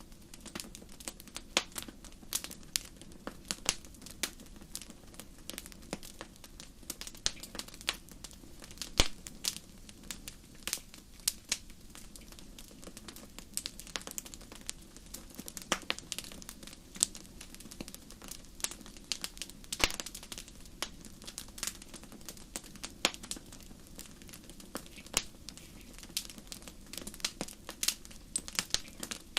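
Wood fire crackling: irregular sharp snaps and pops, several a second, over a faint steady low rush.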